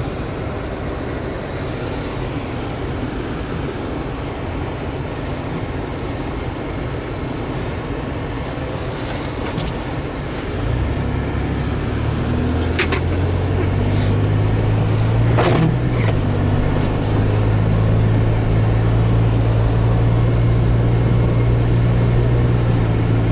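Cabin noise of a four-wheel-drive vehicle driving through snow: engine and tyre rumble. About ten seconds in it turns into a louder, steady low engine drone, with a few light clicks.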